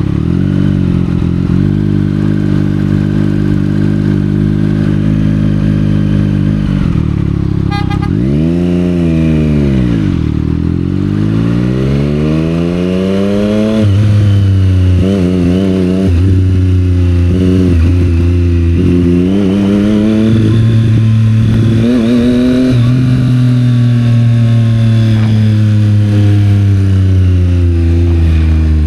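Triumph Street Triple 765 R's inline-three engine through a Yoshimura aftermarket exhaust, heard from the rider's seat. It runs steadily at first, is revved up and let back down about eight seconds in, then pulls away through the gears, its pitch rising and dropping sharply at each shift.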